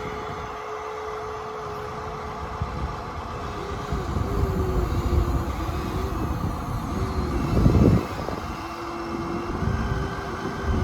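Electric motors of a radio-controlled toy construction machine whining steadily, the pitch dipping briefly several times as the load changes. About eight seconds in, a louder rush of sand scraping and pouring.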